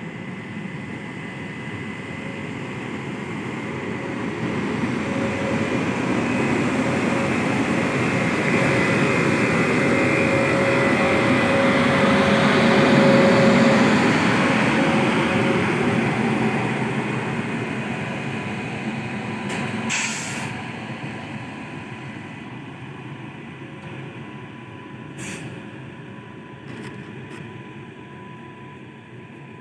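WAP-7 electric locomotive passing on rails: the wheel-on-rail rumble with a steady whine in it builds to a peak about halfway through, then fades as it moves away. Two sharp clicks come as it recedes.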